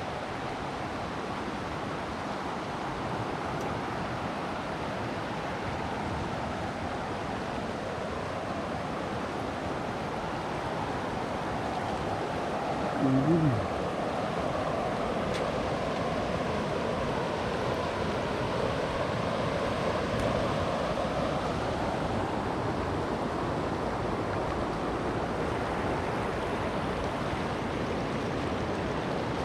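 Waterfall water rushing in a steady, even hiss that grows a little louder through the first half.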